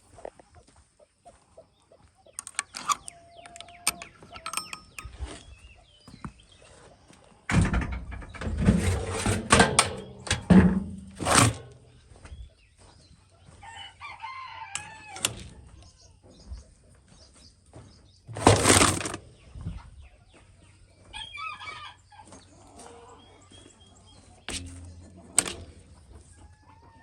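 Chickens calling in their run, with loud bursts of wing flapping and scattered knocks, mostly in the first half and again about two-thirds of the way through.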